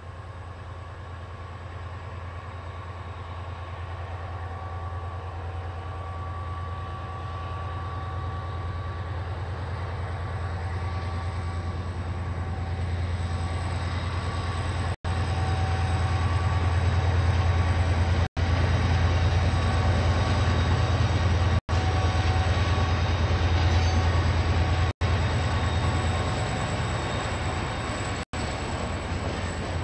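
KiwiRail diesel locomotive approaching on the line: a low engine drone with a steady whine above it grows gradually louder, is loudest about two-thirds of the way through and eases slightly near the end. The recording cuts out for an instant every few seconds in the second half.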